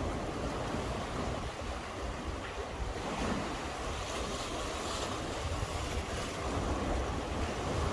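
Sea waves washing and surging steadily, with wind rumbling on the microphone.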